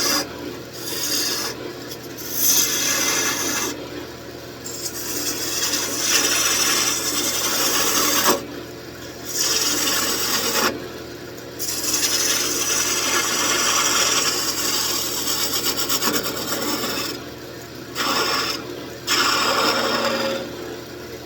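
A turning tool cutting spinning wood on a wood lathe, a continuous rasping scrape broken by several short pauses as the tool is lifted and set back to the work. The lathe's motor hums steadily underneath.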